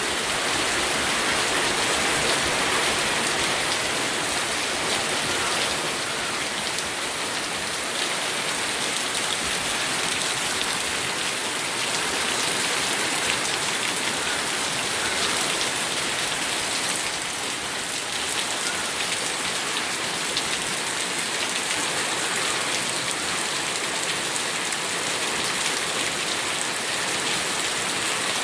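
Steady rain falling, a dense even hiss with individual drop hits ticking through it.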